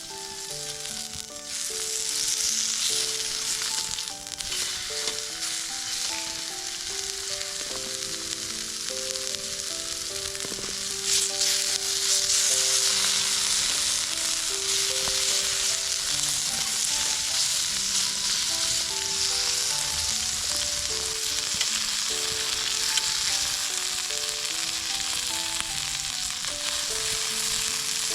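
Food frying and sizzling in a hot pan over a dense, steady hiss that grows louder about eleven seconds in. A light melodic background tune plays underneath.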